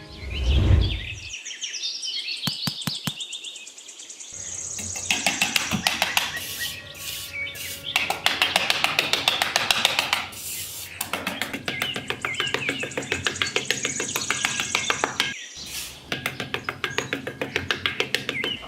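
Birds chirping over background music, with a fast run of rapid ticks through most of it and a low thump about half a second in.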